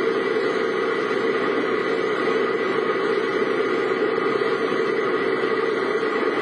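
Steady running noise of a vehicle on the road, engine and road noise blended into an even hum with no distinct events.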